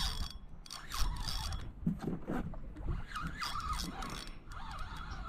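Fishing reel being cranked with irregular ratcheting clicks and rattles while a hooked bass is fought.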